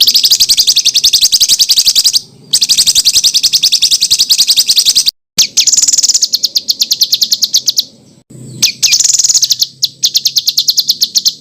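Songbird 'tembakan' song: long trains of rapid, evenly repeated high notes, about ten a second, in four runs broken by short pauses, played as tutor song for caged songbirds.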